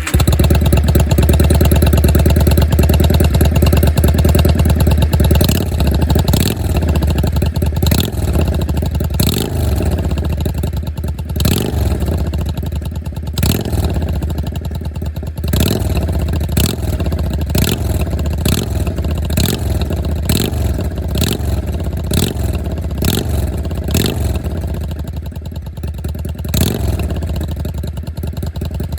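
Yamaha Drag Star 400 Classic's air-cooled V-twin exhaust, just after starting. It runs steadily for a few seconds, then is revved in a long series of short throttle blips about once a second, each rising and dropping back to idle, and settles to idle near the end.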